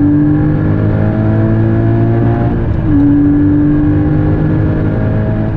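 Porsche Cayman GT4's 3.8-litre flat-six, heard from inside the cabin, pulling hard under full acceleration with the revs climbing steadily. The revs drop sharply once about two and a half seconds in as it shifts up a gear, then climb again.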